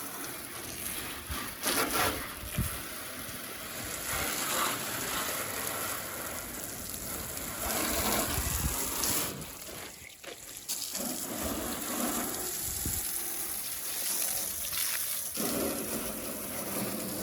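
Water spraying from a hose onto a truck's body to wash off road dirt and bugs, a steady hiss that changes as the spray moves and briefly breaks off about ten seconds in.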